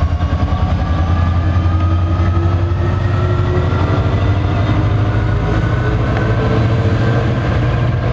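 NJ Transit train running close by: a loud, steady low rumble with a fast flutter, and faint whining tones that drift slowly upward in pitch.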